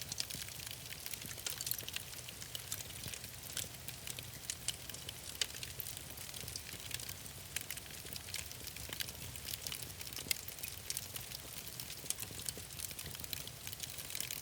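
Wood fire crackling in a fireplace: frequent irregular snaps and pops over a steady hiss and low rumble.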